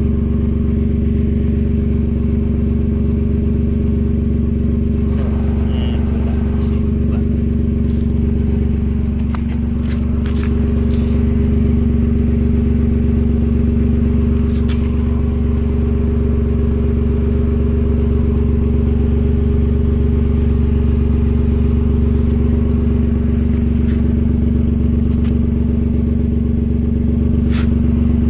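Datsun car's engine idling steadily through an aftermarket racing exhaust, its level rising slightly about ten seconds in.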